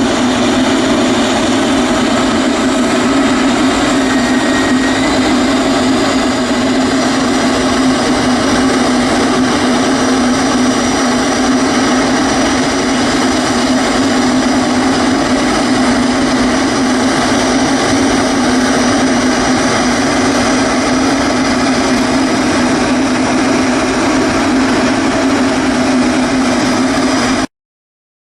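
Jet airliner engines running steadily, a loud even noise with a faint high whine over it. The sound drops out completely for a moment near the end.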